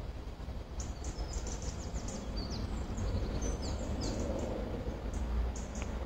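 Small birds chirping in the trees, short high calls coming in quick runs, over a steady low rumble on the microphone.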